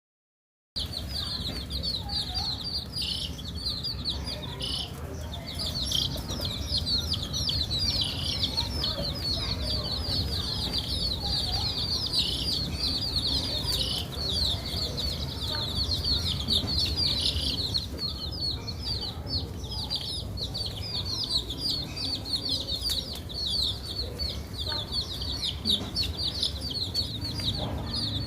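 Many baby chicks peeping at once: a dense, continuous stream of short, high, overlapping peeps over a steady low rumble. It starts abruptly just under a second in.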